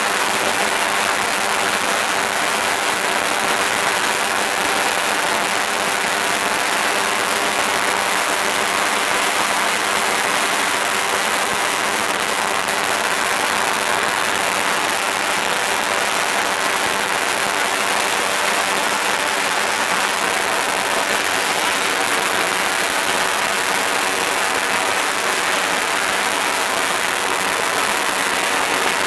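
A long string of firecrackers going off in a continuous, dense crackle that stays steady throughout.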